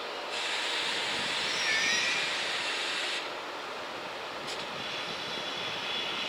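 Train running past on the rails, a steady rushing that swells for about three seconds. Brief high-pitched wheel squeal comes through about two seconds in, and a faint squeal tone returns near the end.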